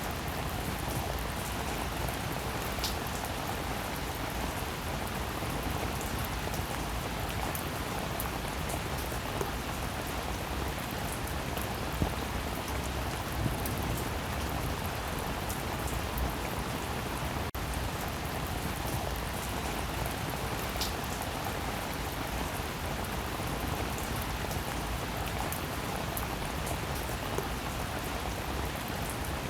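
Steady rain falling, with individual drops ticking sharply here and there. The sound drops out for an instant about two-thirds of the way through.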